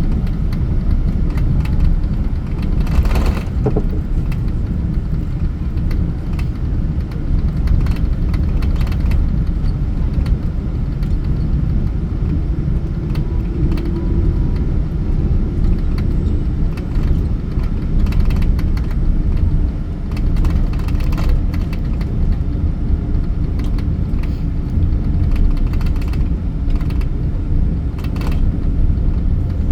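Jet airliner cabin noise: a steady, loud low rumble of engines and airflow, with scattered short clicks and knocks.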